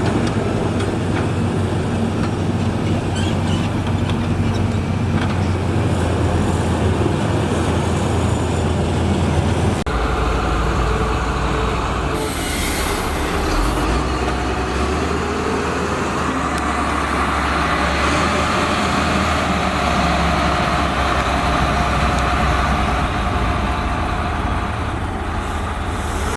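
Diesel engine of a heavy road-building machine running steadily, its low note changing about ten seconds in, with a short hiss a couple of seconds later.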